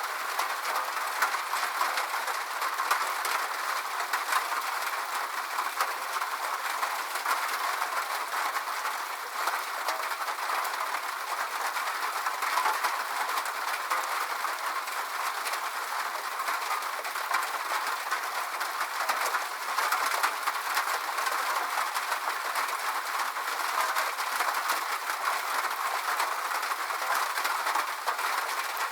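Steady rain falling, an even hiss dotted with fine drop patter, with no deep rumble.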